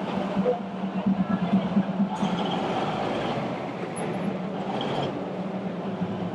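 Diesel train passing slowly close by on the Maeklong railway line, with a steady engine drone and rail noise.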